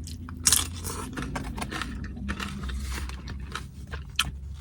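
Close-up crunching and scraping of carne asada chips (loaded tortilla-chip nachos) being eaten and handled. It comes as a run of sharp crackles and clicks, the loudest about half a second in.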